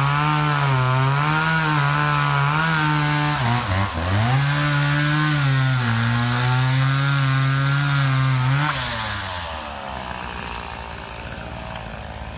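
Two-stroke chainsaw running at high throttle, its pitch wavering as it cuts wood. It dips sharply about four seconds in and recovers, then drops to idle near the end.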